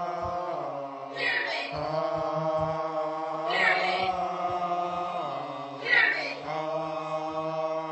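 A man's voice chanting on one steady held pitch, with a new syllable starting about every two and a half seconds.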